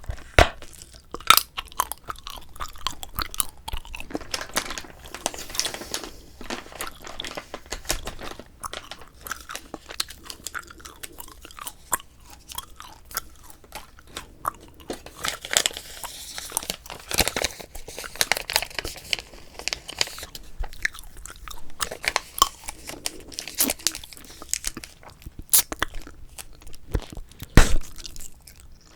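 Close-miked bubble gum chewing: a steady run of irregular wet smacks and clicks from the mouth. A couple of louder sharp snaps come about a second in and again near the end.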